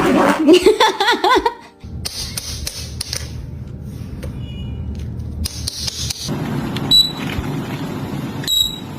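Parrot mimicking a voice: a loud, wavering, warbling call for about the first two seconds, then a stretch of noise with two short high whistled notes near the end.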